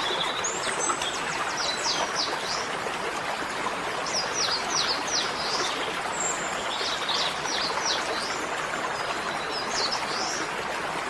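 Small songbirds chirping in quick bursts of several sharp notes every two to three seconds, over a steady rushing background noise.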